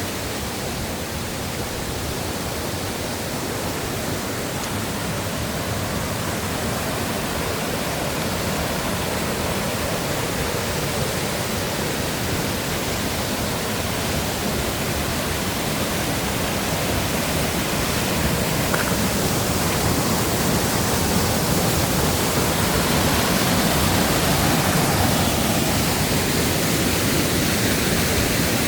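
Rushing water of a mountain valley stream: a steady, even rush that grows slightly louder toward the end.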